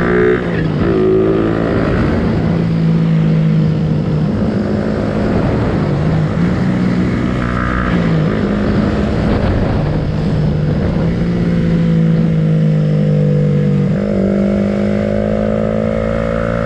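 Suzuki Raider 150 Fi's single-cylinder four-stroke engine running under way, its note holding steady, dipping and rising with the throttle, and climbing as it accelerates near the end.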